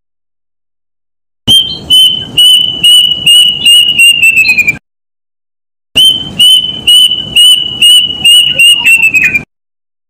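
A bird's loud whistled song given twice: each time a run of high, even notes that come faster and faster and drop slightly in pitch at the end.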